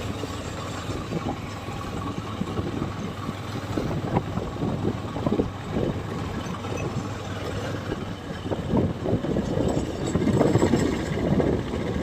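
Motorcycle engine running during a ride, with rough, gusting wind noise on the microphone that grows stronger in the last few seconds.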